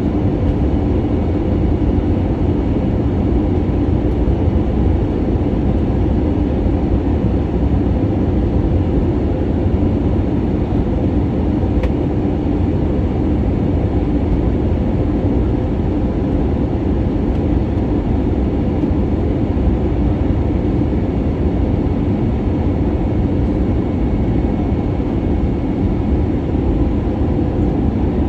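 Steady cabin noise aboard an Airbus A320neo airliner in flight: a constant rush and deep rumble from airflow and the engines, with faint steady high tones above it.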